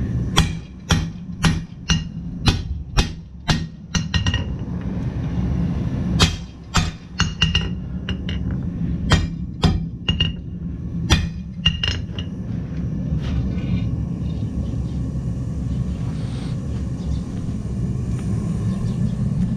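Hammer blows on hot steel at an anvil, a run of sharp ringing strikes about two a second that pauses briefly about five seconds in and stops about twelve seconds in. A steady low rumble runs underneath.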